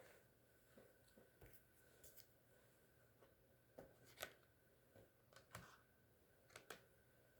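Near silence broken by a few faint clicks and rustles of trading cards in plastic sleeves and hard protectors being handled, the loudest a little after four seconds in.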